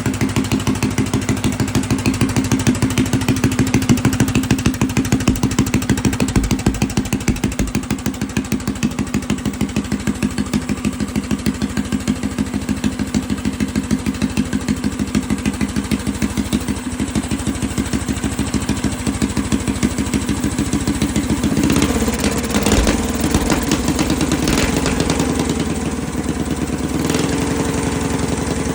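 Briggs & Stratton small engine running steadily through its break-in, with an even pulsing exhaust note. About 21 seconds in the sound changes and turns rougher and busier.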